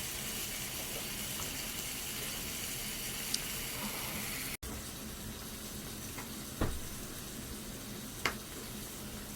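Thin-sliced beef brisket sizzling on an electric multicooker grill, a steady hiss, with two sharp clicks in the second half.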